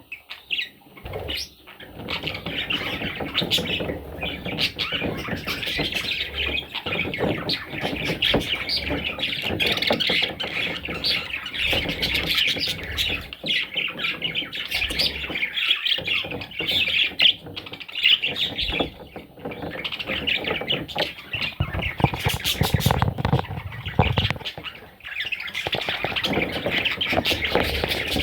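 Pet budgerigars chattering and squawking almost without a break, with many short clicks mixed into the chatter.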